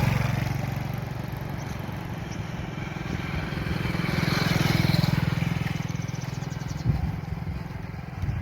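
A vehicle engine running steadily, growing louder about four to five seconds in and then easing off again, with a single knock near the end.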